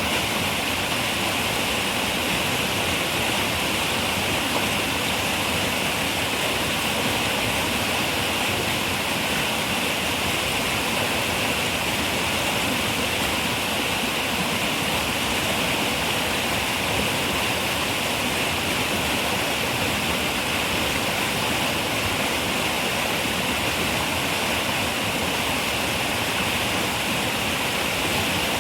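A river running steadily: an even rush of water with a hissing top, holding the same level throughout.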